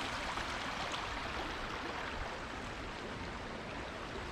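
A beck, a small stream, running over rocks: a steady, even hiss of flowing water.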